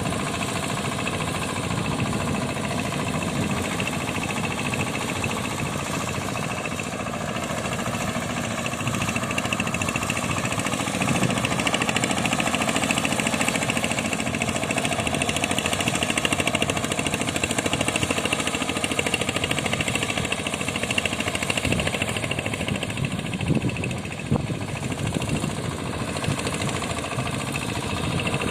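Tractor engine driving a boat, running steadily; it gets louder about eleven seconds in, eases back around twenty-two seconds, and gives a couple of sharp knocks a little after that.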